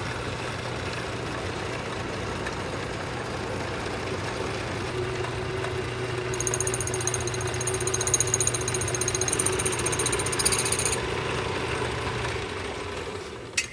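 Metal lathe running steadily while taking the finishing cut on a headlight rim. A high-pitched cutting whine joins in from about six seconds in until about eleven seconds, and the lathe spins down near the end.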